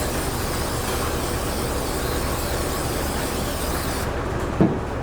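Steady low mechanical hum with a bright hiss over it; the hiss stops about four seconds in, and a single thump follows shortly after.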